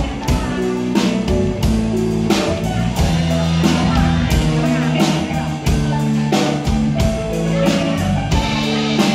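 Instrumental break of a pop song played at a concert: sustained band chords over an even drum beat, with no singing.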